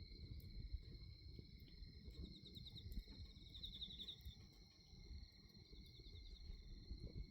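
Night insects trilling steadily at two high pitches, with a faster pulsed chirping joining in about two to four seconds in. Underneath are a faint low rumble and scattered soft crackles from the wood bonfire.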